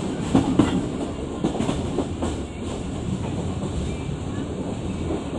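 A Pakistan Railways train running on its rails, a steady rumble with a few sharp wheel knocks over rail joints in the first couple of seconds.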